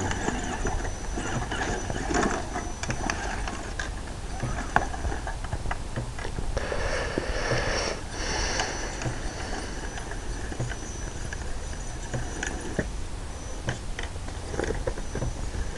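Electric drive motor of an Axial Trail Honcho RC crawler whining in spells as it is driven, with its wheels and chassis clattering in many short knocks over the ground.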